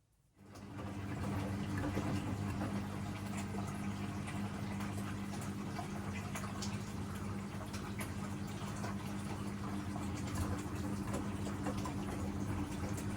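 Siemens WM14T490 washing machine starting up abruptly a moment in from silence: a steady mains-like hum under running, splashing water with fine crackling.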